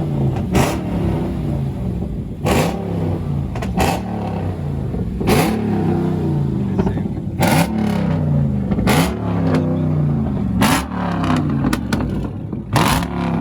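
Engine revving over and over, its pitch rising and falling, with sharp cracks every second or two.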